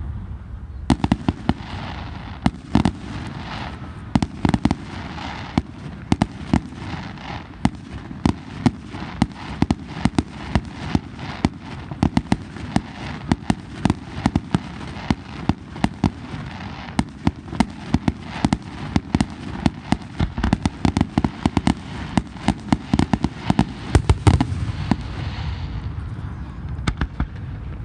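Fireworks display: a rapid barrage of bangs, several a second, over continuous crackling, starting about a second in and dying away a few seconds before the end.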